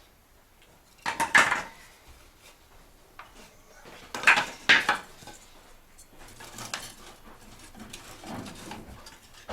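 Firewood being laid into a fireplace stove's firebox: logs clatter and knock against the metal, a cluster about a second in, two louder knocks about four seconds in, then lighter knocks.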